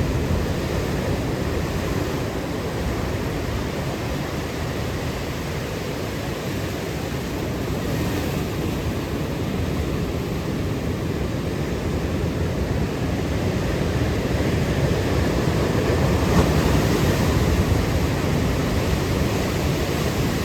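Ocean surf washing in steadily, mixed with wind noise on the microphone, a little louder in the second half.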